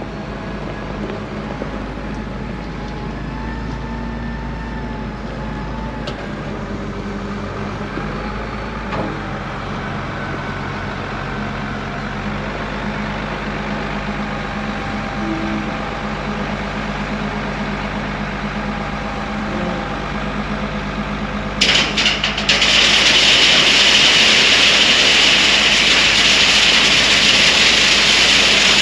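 A motor vehicle's engine running steadily. About 22 seconds in, a much louder rushing hiss sets in and carries on.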